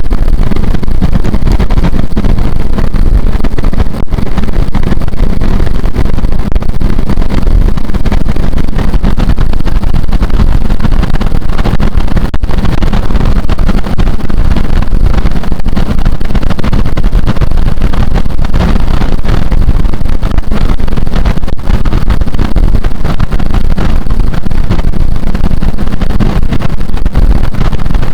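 A car driving at expressway speed: steady, loud road and wind noise.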